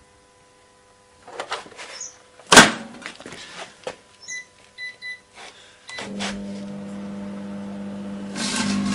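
Microwave oven being started: its door shuts with a loud clunk, the keypad beeps three times, and then the oven starts up with a steady hum that grows louder near the end.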